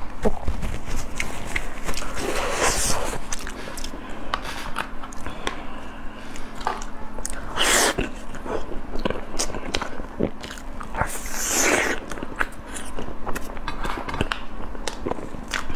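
Close-miked eating sounds of biting into and chewing a soft round cake, with many small wet clicks and smacks of the mouth. Three short, louder rushing sounds come about 3, 8 and 12 seconds in.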